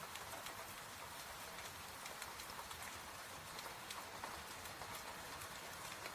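Steady rain hiss mixed with irregular small pops and crackles, as of a wood fire burning in a fireplace.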